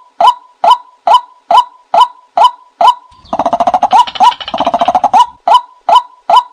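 A bird calling in a steady series of short pitched notes, a little over two a second, broken near the middle by about two seconds of rapid chattering calls.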